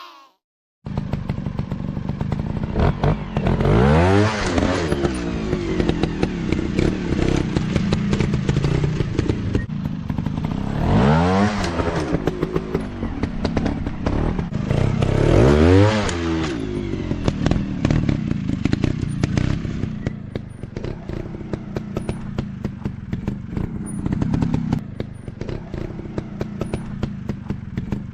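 Off-road dirt bike engine running with a rough, clattering firing note, revved up and back down three times, about four seconds in, around eleven seconds and near sixteen seconds, then running lower toward the end.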